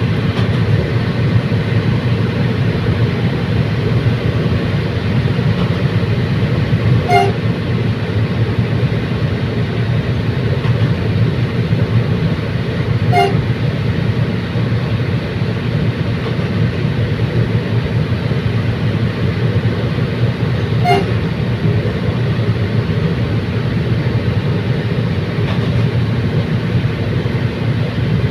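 Commuter train running steadily, a constant heavy rumble broken three times by a short sharp clank, several seconds apart.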